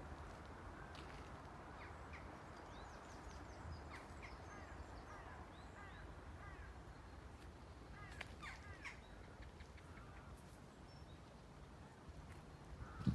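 Many birds calling at once, a dense scatter of short overlapping calls, over a faint steady outdoor hiss. A single loud thump near the end.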